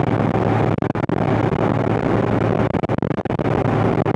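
John Deere 8970 tractor's six-cylinder Cummins diesel running steadily under load while pulling a turbo-till across the field, a constant low drone with a strong hum, broken by short dropouts in the recording.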